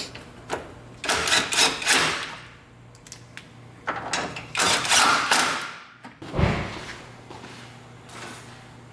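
Car body parts being handled and fitted: two bursts of scraping and clattering about a second long, a few sharp knocks, and a dull thump near the end, over a steady low hum.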